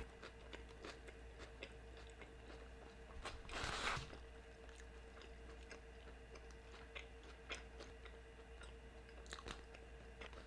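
Close-up, faint chewing and biting of a Suadero beef burrito, with small wet clicks. About three and a half seconds in comes one louder, brief burst of noise. A faint steady hum runs underneath.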